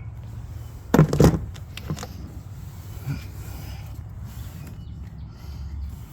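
Hand tools working on a truck's shock-absorber top bolt: a sharp cluster of metal clanks about a second in, then a few lighter clicks, over a steady low hum.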